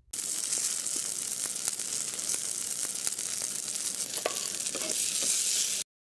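Water bubbling and fizzing as a sound effect: a steady hiss with scattered small pops and bubbles, which cuts off suddenly near the end.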